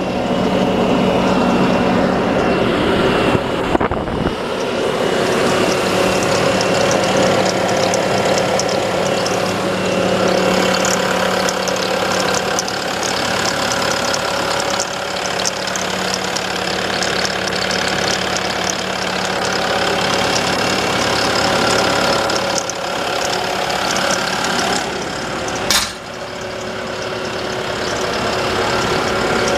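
Diesel engine of a Bobcat T740 compact track loader running steadily. Near the end there is a short sharp click and the sound drops slightly.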